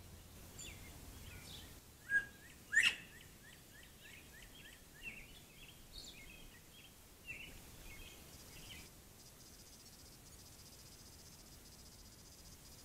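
Wild birds calling: a run of short, quick chirps, about two or three a second, with two louder, sharper calls about two seconds in.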